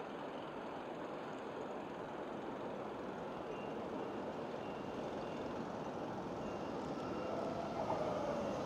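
E7 series Shinkansen train pulling slowly into a terminal platform, its running noise growing gradually louder as it approaches, with a faint whine coming in near the end.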